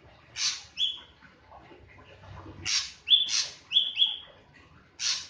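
Drongo calling: a series of short, harsh rasping calls mixed with brief flat whistled notes that drop at the end, about eight calls in all with short pauses between.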